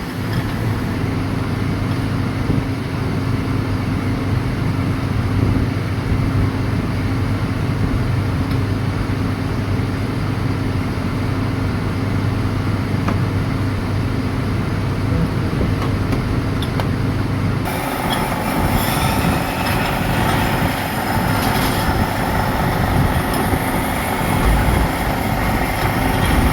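Workshop machinery running steadily with a low hum. About 18 s in the sound changes to a brighter, clattering machine noise.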